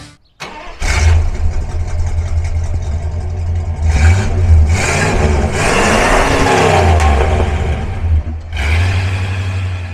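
1961 Chrysler Newport's V8 running through its exhaust. The engine comes in about a second in and is blipped a few times, with one longer rev rising and falling near the middle.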